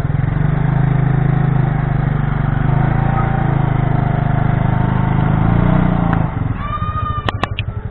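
Motorcycle engine running steadily with a pulsing low note, easing off about six seconds in. A brief higher-pitched tone and two sharp clicks come near the end.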